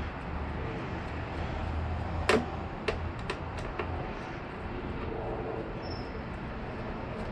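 Scattered clicks and knocks of hand work on a motorcycle's plastic fairing panels and fasteners, with one sharper knock about two seconds in, over a low steady hum that fades about halfway through.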